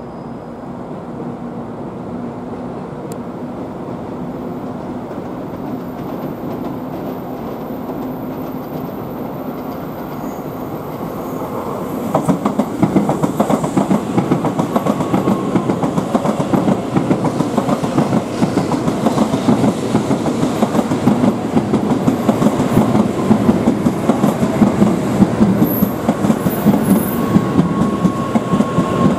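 N700A Shinkansen train pulling into the station. A rumble grows as it approaches, then about twelve seconds in the cars reach the platform and a loud, rapid clatter of wheels and running gear continues as they roll past close by.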